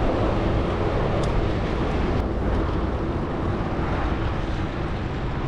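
Steady rushing wind noise on the microphone of a moving bicycle, mixed with the rumble of traffic on the road.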